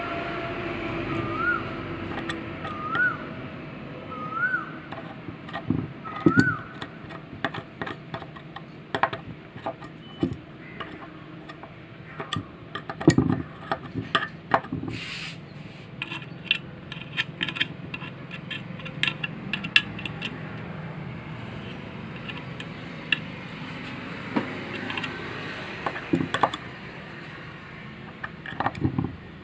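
Clicks and knocks of metal ceiling-fan parts and tools being handled during bearing regreasing. In the first few seconds there are also five short rising chirps, about one every one and a half seconds.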